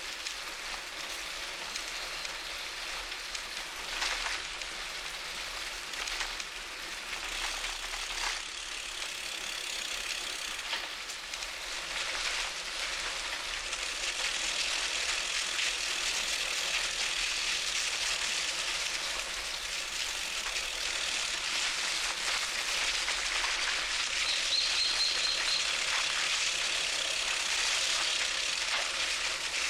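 Steady rushing hiss of a bicycle ride, tyres rolling and air moving past, getting louder about halfway through. A brief high bird trill sounds about 25 seconds in.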